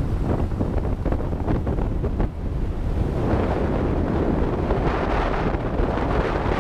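Heavy wind buffeting on the microphone, a low rumbling roar that grows stronger about three seconds in.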